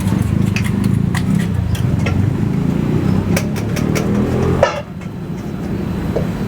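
A motor vehicle engine idling close by, a steady low hum, with many sharp clicks and taps over it. About three-quarters of the way through, a loud knock comes and the engine hum cuts off suddenly, then a weaker hum carries on.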